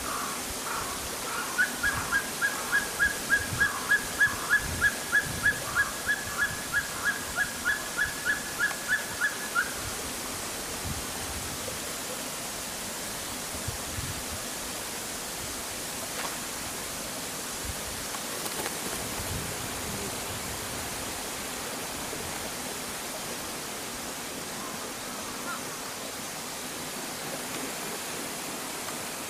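A bird calling a long, even series of short notes, about three a second for some eight seconds, getting louder and then fading, over a steady rushing background noise.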